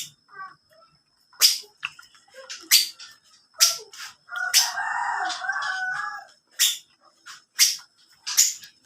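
Sharp crunches of someone biting and chewing crispy lechon skin, one every second or so. About halfway through, a rooster crows once, lasting under two seconds.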